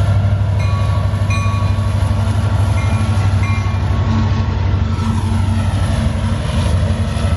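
A train running past with a loud, steady low rumble, and a few brief higher-pitched tones about one and three seconds in.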